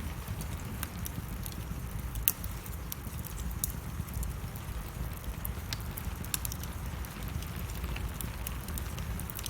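Wood fire burning in a fireplace, crackling with irregular sharp pops over a steady low rumble; one louder pop about two seconds in.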